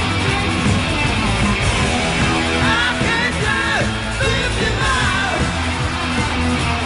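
Hard rock music with electric guitar, and high bending sung or wailed lines in the middle.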